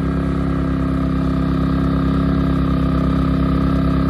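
WEN 3600-watt portable generator engine running steadily under the load of a 16,000 BTU air conditioner, an even hum with a regular low pulse; it is holding 60 hertz with no drop.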